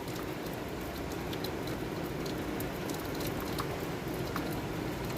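Steady heavy rain falling, a constant hiss with scattered sharp drop ticks.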